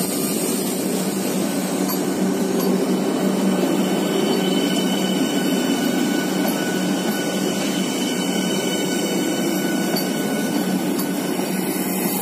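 Train 18 engineless electric multiple-unit train rolling past along a platform: a steady rolling rumble of wheels on rail, with a few faint steady tones over it.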